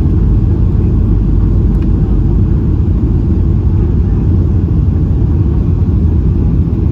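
Airliner cabin noise in flight: a steady, even low rumble of engines and airflow heard from inside the passenger cabin.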